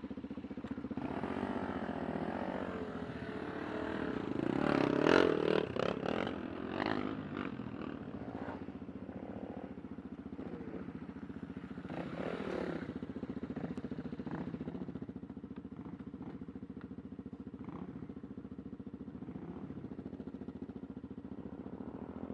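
Honda Super Sherpa's 250 cc single-cylinder engine running at a steady low speed, with a louder stretch of rough clattering noise about four to seven seconds in and a shorter one around twelve seconds.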